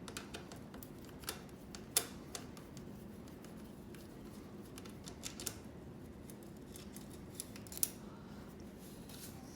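Scattered light metallic clicks and clinks as a nut driver works screws with nut heads loose from an aluminum lawn chair's frame, over a low steady room hum.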